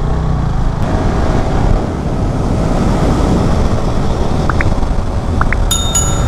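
Yamaha R15 V3 motorcycle riding at speed: its single-cylinder engine running under steady wind and road noise on the microphone. Near the end a high steady tone with several pitches starts and carries on.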